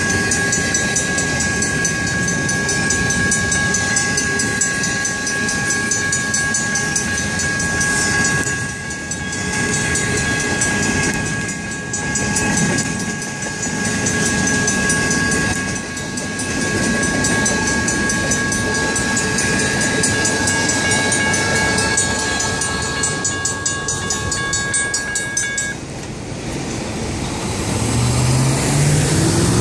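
Railroad crossing bells, an electronic bell together with a Griswold mechanical bell, ringing in a fast steady rhythm over the rumble of a passing train. Both bells cut off about 26 seconds in. Near the end a road vehicle's engine rises in pitch as it pulls away.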